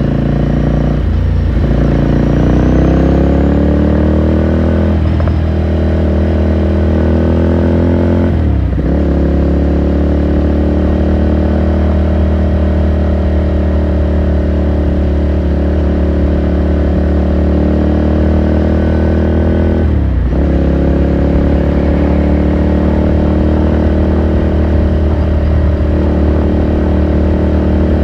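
2018 Ducati Scrambler Sixty2's air-cooled L-twin engine under way, its note climbing and dropping through upshifts about a second in, around five seconds and near nine seconds. It then holds a steady cruise, with one more brief dip and shift about twenty seconds in.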